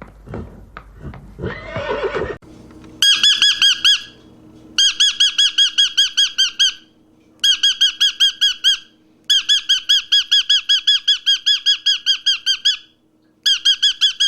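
An animal calling in rapid high chirps, about eight a second, in five bouts broken by short pauses. Before the chirping, a few knocks and a lower, rising call.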